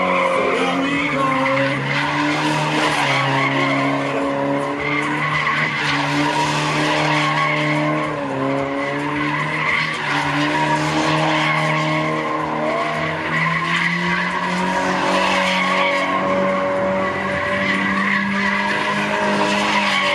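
A car doing donuts: the engine is held at high revs, steady with small rises and dips in pitch, over continuous tyre squeal.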